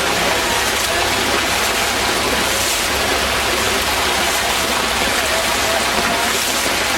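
Steady, unbroken rush of floodwater running through a flooded festival campsite, with heavy rain falling.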